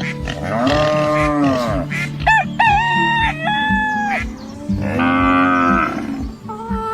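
A cow mooing twice in long calls, with a rooster crowing in between, over background music with a steady beat.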